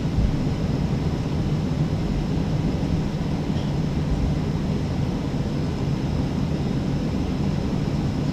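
Steady low rumble and hum of a Boeing 737 airliner's cabin, heard from a passenger seat while the plane is on the ground before take-off.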